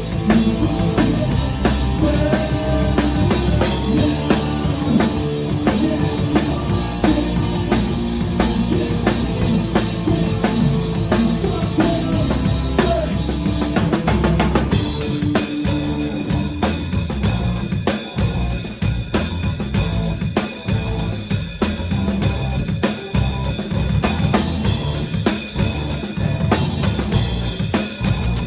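Rock band playing, with the drum kit loudest: bass drum, snare and rimshots on a steady beat. About halfway through the cymbals turn brighter, and soon after the sustained guitar and bass notes drop away, leaving mostly drums.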